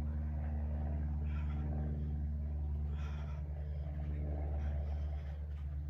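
A steady low hum, with faint breaths from a person doing toe-touch crunches, one about every one and a half to two seconds.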